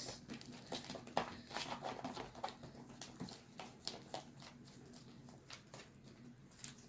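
Homemade slime being mixed: faint, irregular wet clicks and squelches, coming thickly for the first few seconds and then thinning out.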